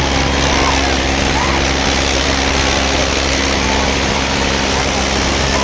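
Tractor diesel engine running steadily at an unchanging pitch, with a dense noisy wash over it.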